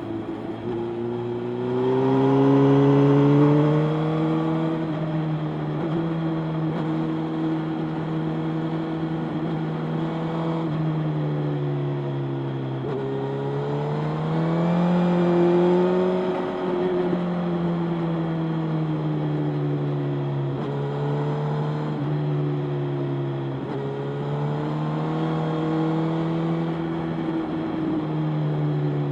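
Motorcycle engine running under way, its pitch climbing as it accelerates about two seconds in and again near the middle, otherwise holding a steady cruising note.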